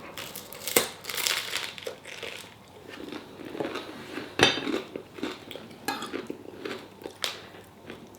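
A person eating: cutlery clinking and scraping on a plate, with chewing in between and a few sharp clinks standing out.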